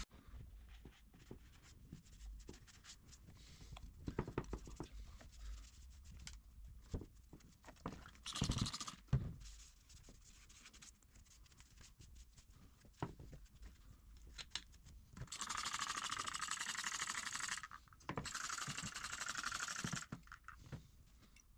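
Small engine parts and hand tools being handled, with scattered light clicks and knocks and a brief cluster of louder knocks partway through. Near the end come two stretches of steady rasping scraping, each about two to three seconds long.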